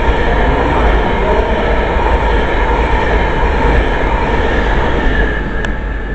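Avanti West Coast Class 390 Pendolino electric train passing through the station at speed: a loud, steady rush of wheels on rail and traction equipment, easing off a little about five seconds in.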